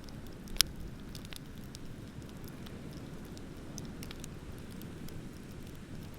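Wood fire crackling with scattered small snaps and one sharp, loud pop about half a second in, over a low steady rumble.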